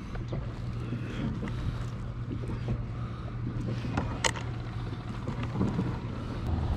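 Wind on the microphone over a kayak on the water, with a steady low hum and small knocks and clicks of handling, one sharper click about four seconds in.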